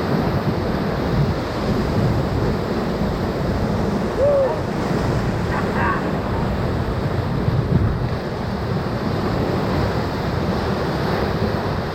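Whitewater of a river rapid rushing steadily around the raft, with wind buffeting the microphone. A brief voice cuts in about four seconds in.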